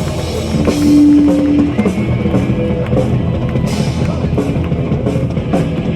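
Live metal band playing an instrumental passage with no singing: drum kit with bass drum and cymbals, and electric guitar.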